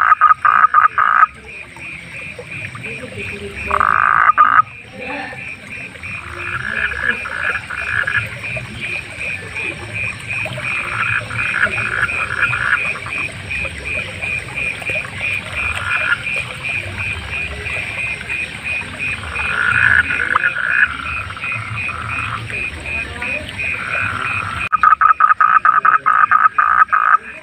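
Frogs croaking: loud bouts of rapid, rattling pulsed calls at the start, about four seconds in and over the last few seconds, with softer bouts between, over a steady, evenly pulsing high-pitched call that runs throughout.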